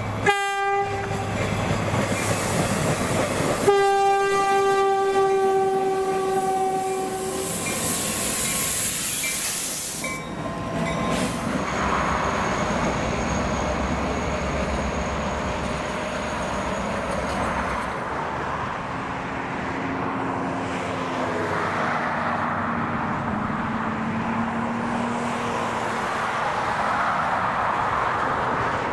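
Train horn sounding one short toot and then a longer blast of about four seconds on a single steady note, followed by the steady rumble of EMD diesel locomotives and wheels rolling over the rails, with a faint thin squeal partway through.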